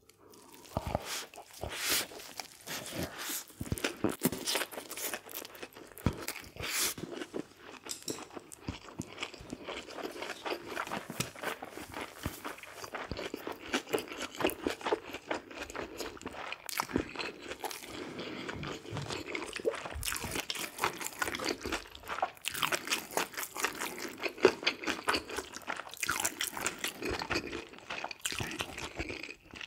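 A person chewing and biting food close to the microphone: a steady run of crisp, irregular crunching and mouth clicks.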